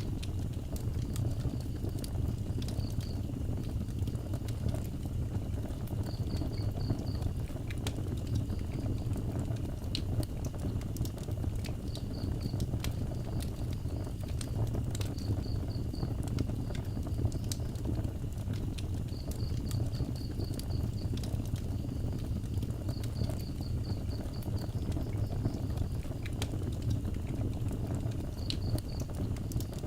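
Wood fire burning with a steady low rumble and frequent sharp crackles and pops. Over it, an insect chirps in short high trills of rapid pulses every few seconds, with a faint steady high drone behind.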